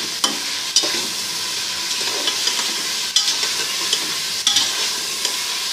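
Beef and ginger-garlic paste sizzling in hot oil, stirred with a spoon that knocks and scrapes against the pot several times.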